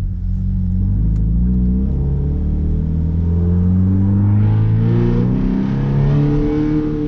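Scion FR-S's 2.0-litre flat-four engine, muffler and resonator deleted, pulling under acceleration with its exhaust note slowly rising in pitch. About four and a half seconds in, the note changes and turns harsher and raspier.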